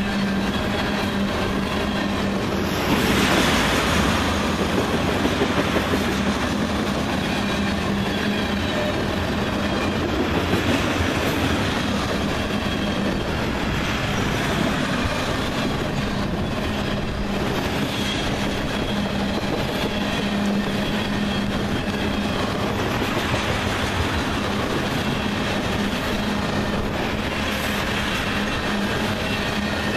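Tank cars of a crude oil freight train rolling past close by: a steady rumble of steel wheels on rail with clickety-clack from the rail joints, loudest about three to six seconds in.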